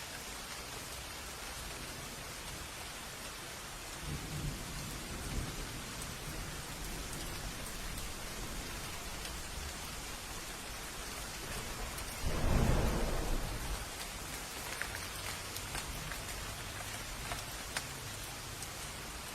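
Steady rain with thunder. A low rumble of thunder begins about four seconds in, and a louder thunderclap comes about two-thirds of the way through, then fades back into the rain.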